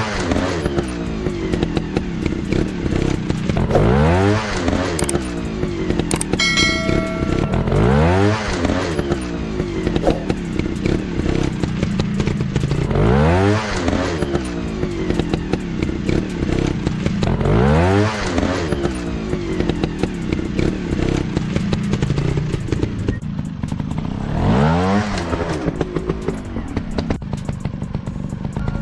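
Dirt bike engines revving over and over, the pitch climbing in a rising sweep about every four to five seconds.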